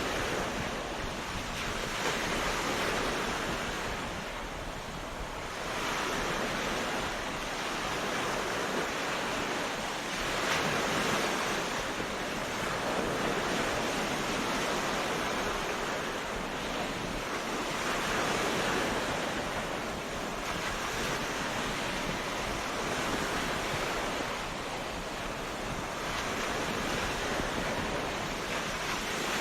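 Ocean surf washing onto a beach: a continuous hiss of breaking waves that swells and eases every few seconds as each wave comes in.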